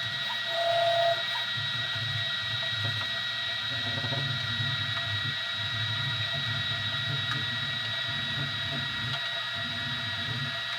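Small Easythreed X2 desktop 3D printer running mid-print: its stepper motors give a steady high whine over a pulsing low hum, with a short louder tone a little over half a second in.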